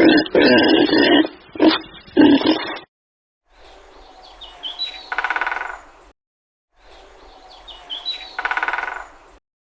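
A pig grunting in several loud, low bursts. After a short gap come two near-identical stretches of bird chirping, each ending in a fast trill.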